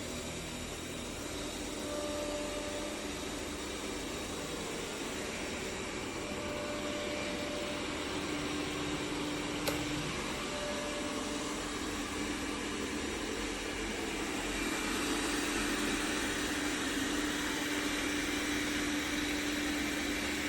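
Xiaomi Robot Vacuum X20 Pro washing its mop pads at the base station: a steady mechanical whir with a faint hum. It grows a little louder in the second half, and there is a single sharp click about halfway through.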